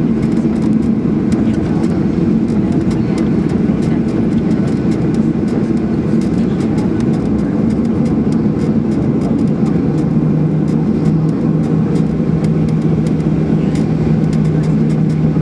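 Steady engine and airframe noise inside the cabin of a Boeing 737-800, a deep rumble with a hum that drops a little in pitch about ten seconds in, and light rattles throughout.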